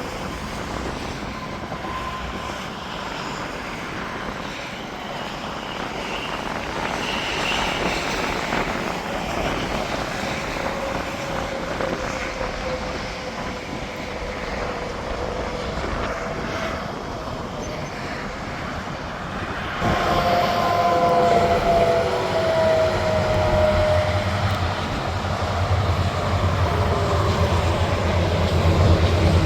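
Interstate highway traffic: semi-trucks and cars passing with a steady rush of tyre and engine noise, their pitch falling as each one goes by. A louder vehicle passes about two-thirds of the way through, and a deep engine rumble builds near the end as another truck approaches.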